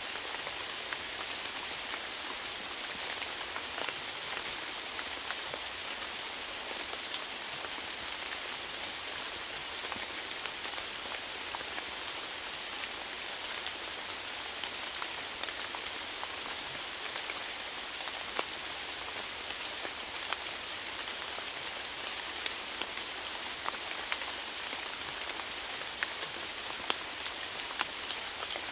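Steady rain falling, an even hiss with scattered sharper drops hitting a surface.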